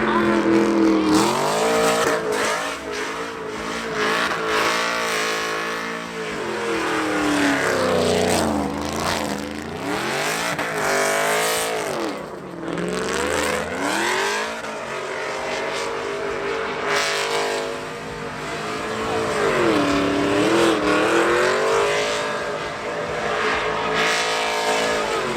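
A truck engine revved hard again and again, its pitch climbing and falling back several times over a steady rushing noise.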